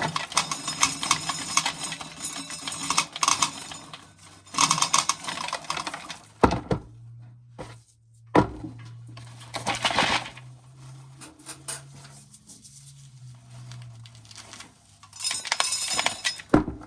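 Dry corn kernels being shelled off the cob, rattling and clinking as they fall into a pail, in spells of a few seconds with pauses between. A low steady hum runs through the quieter middle stretch.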